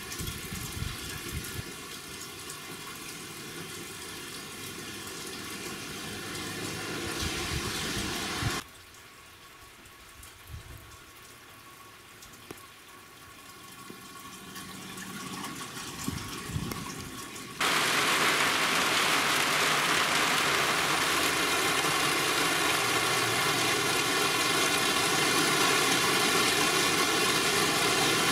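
Rain falling steadily on a corrugated roof and garden as an even hiss. It drops to a softer hiss for about nine seconds a third of the way in, then jumps suddenly to a loud, dense downpour pouring onto the corrugated roof.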